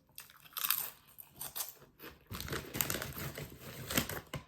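Food packaging being handled, crinkling and rustling in irregular bursts that are densest in the second half.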